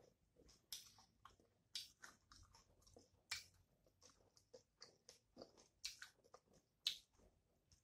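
Faint close-up chewing of food, with irregular sharp wet mouth clicks and smacks every second or so.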